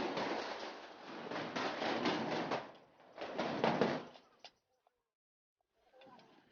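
Bicycle being ridden: a rush of noise with a string of rattling knocks, which cuts out suddenly after about four and a half seconds; faint noise returns near the end.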